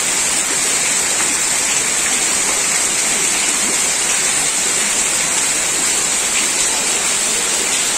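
Heavy monsoon rain pouring onto a flooded street, a steady hiss of drops hitting standing water.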